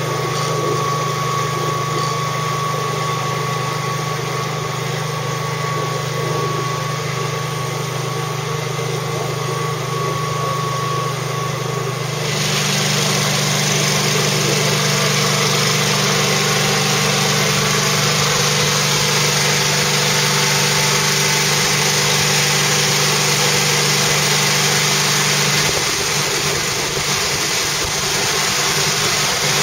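An engine running steadily with a low hum. About twelve seconds in it turns louder, with a rushing hiss added, and near the end the low hum drops out while the hiss carries on.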